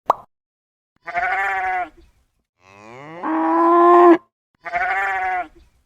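Cow mooing once: one long call about halfway through that rises in pitch and then holds steady. A shorter voice-like sound comes before and after it.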